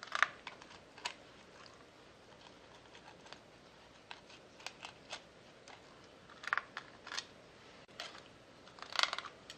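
Filleting knife working along a flounder's backbone: scattered light clicks and small crunches as the blade slides over the bones, with a few louder clusters of clicks near the start, about two-thirds of the way in and near the end.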